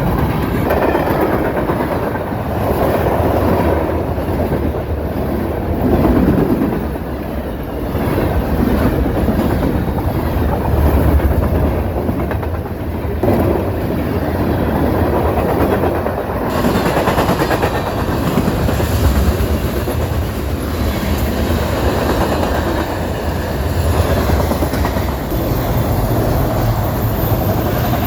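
Freight train's cars rolling past at speed on the rails.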